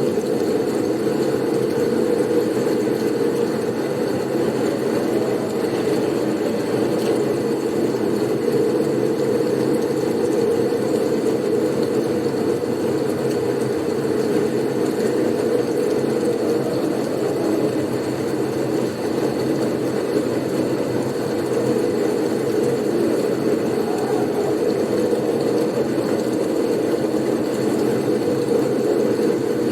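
Blizzard wind as a steady, low rushing drone that does not swell or fade, with a faint thin high tone above it.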